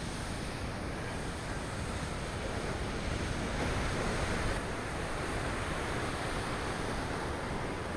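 Rough, stormy sea surf rushing steadily against the shore, swelling slightly midway, with wind buffeting the microphone.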